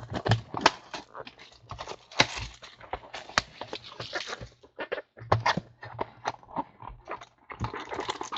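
Football trading cards and packs being handled on a table: a fast, irregular run of clicks, taps and short rustles as packs are torn open and cards are flicked through.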